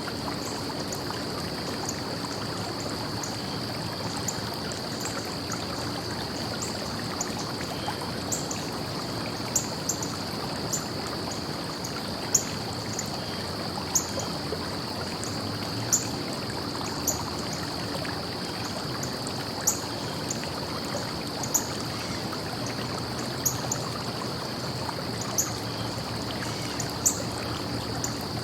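Stream flowing steadily, with a steady high-pitched tone and sharp, high-pitched ticks every second or two.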